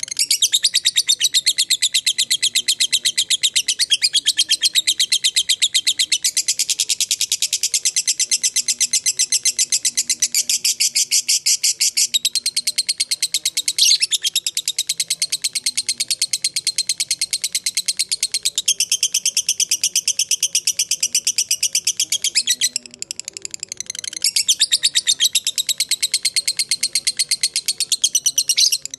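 Lovebird giving its long chattering 'ngekek' call: a very fast, unbroken string of shrill high notes. It goes softer for about a second roughly three-quarters of the way through, then picks up again at full strength.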